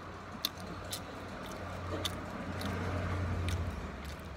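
A person chewing a hamburger, with scattered wet mouth clicks. Underneath, a low vehicle rumble swells in the middle and fades near the end.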